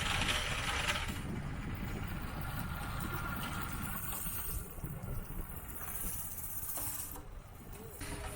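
Engine of a homemade tractor running, a rough low rumble.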